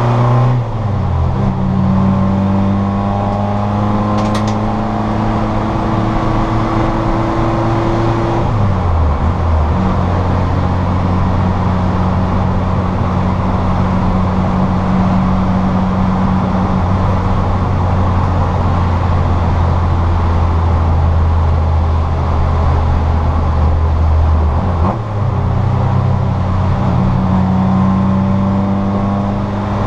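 Citroën Saxo VTR's four-cylinder engine heard from inside the car, running under steady load at a constant pitch for long stretches, with a gear change about 8 seconds in and another near the end.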